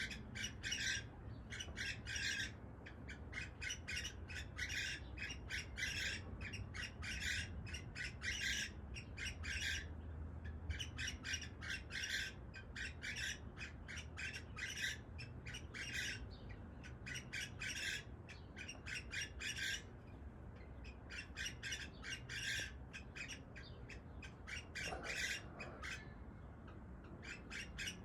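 Cockatiel chirping and squawking in fast runs of short, high calls, with brief pauses between the runs.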